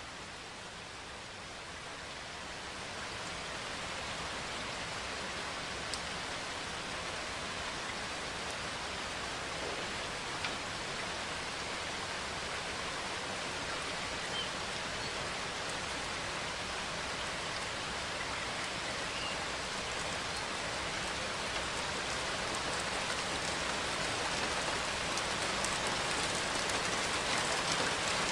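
Steady rainfall, drops pattering on a surface, slowly growing louder, with a few sharper drop ticks.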